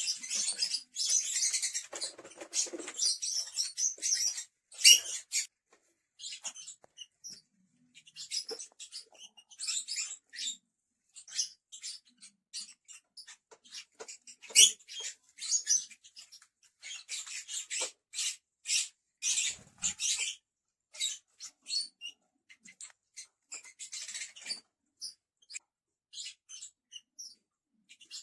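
Lovebirds chattering: rapid, high-pitched squeaky chirps in short bursts, dense for the first few seconds and then coming in scattered bursts with short pauses.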